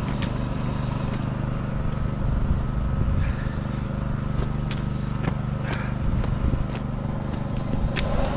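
An engine running steadily at a constant speed, with a few short clicks and knocks over it.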